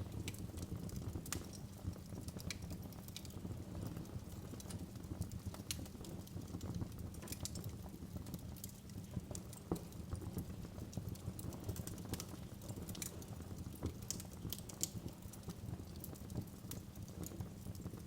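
Wood fire crackling in a fireplace: irregular sharp pops and snaps over a low steady rumble of the burning, with one stronger pop about ten seconds in.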